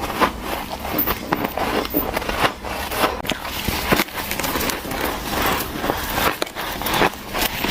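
Teeth biting into and crunching white ice close to the microphone: a quick, irregular run of sharp cracking crunches.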